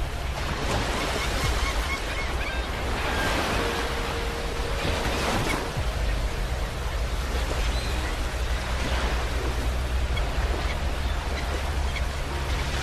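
Sea waves breaking and washing onto a beach, the surf swelling in several surges over a constant low rumble.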